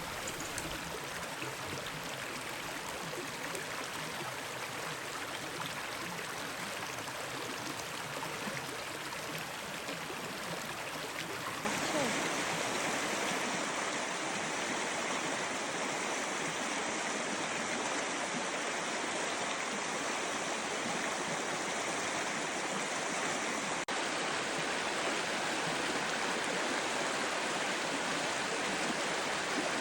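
River water flowing steadily. About twelve seconds in, it changes suddenly to a louder, brighter rush of water.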